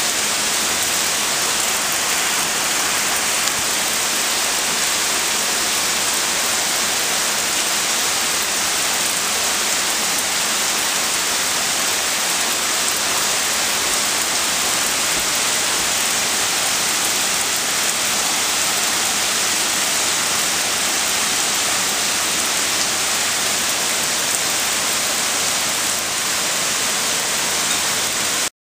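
Steady rain falling on wet pavement and foliage, an even hiss that cuts off suddenly near the end.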